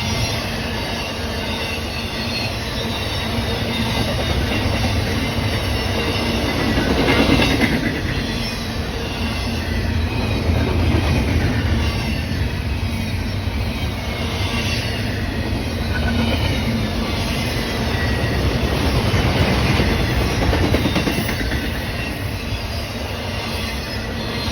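Train rail cars rolling past with a continuous rumble that swells now and then. Thin high-pitched wheel squeal rises above it at times.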